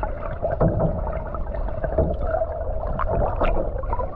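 Kayak paddles dipping and splashing in the water, with irregular short splashes over a steady hum and low wind rumble on the microphone.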